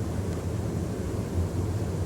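Steady low rumble inside the carriage of a London Midland Class 350 electric multiple unit.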